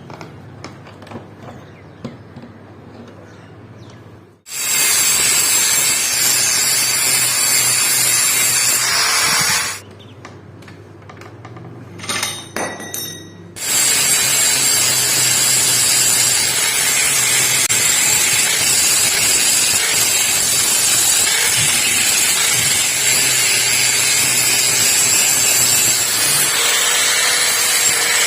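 A handheld power tool running in two long stretches with a steady high whine. It starts about four seconds in, stops for a few seconds around ten seconds, and runs steadily again from about fourteen seconds. Before it come light handling clicks and knocks.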